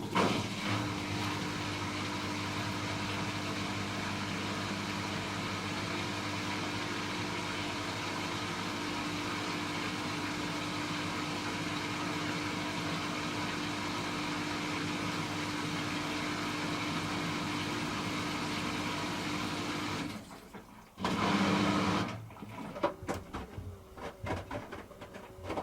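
Hoover H-Wash 300 Plus washing machine running during its rinse: a steady hum that stops about 20 seconds in, comes back for about a second, then gives way to light clicks and ticks.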